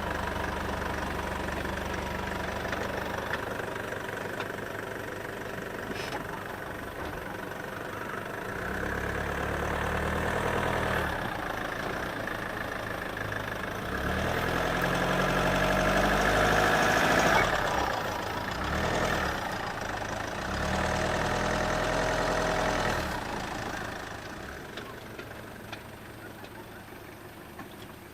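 A vehicle's engine running, with its pitch climbing and falling again around the middle as it revs up and eases off, then growing fainter near the end.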